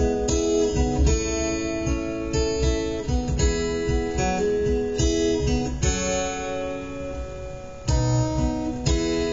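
Acoustic guitar strumming chords; about six seconds in a chord is left to ring out, and the strumming picks up again about two seconds later.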